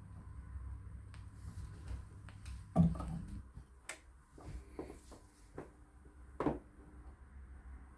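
Faint low hum, then scattered sharp clicks and knocks, with a louder thump about three seconds in after which the hum drops away.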